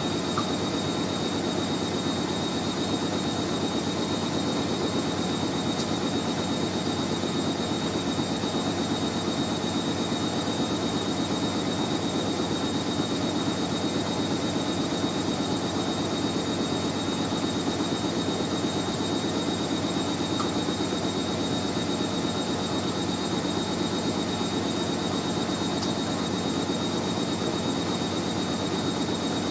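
Hoover A3060 Electronic 1100 front-loading washing machine in a fast spin: a steady low drum rumble with a thin, high motor whine held at one pitch.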